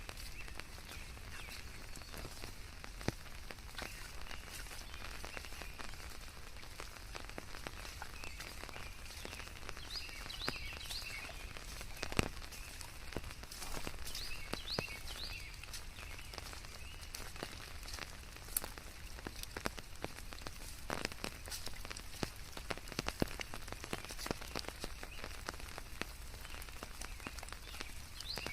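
Rain falling steadily, with many individual drops ticking sharply on leaves and surfaces. A few groups of short high chirps, likely frogs, sound through it: about ten seconds in, again around fourteen seconds, and at the very end.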